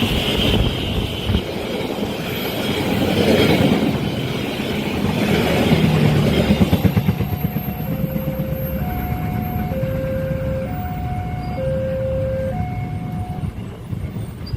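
Train passing at speed, a loud rumble of wheels on rail that builds and then eases off about halfway through. From about eight seconds a two-note warning signal alternates low and high, about one note a second, as the level-crossing alarm keeps sounding.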